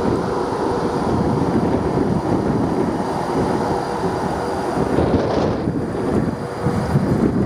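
Class 390 Pendolino electric train rolling past along the platform: a steady rumble of wheels on rail, with a faint steady hum.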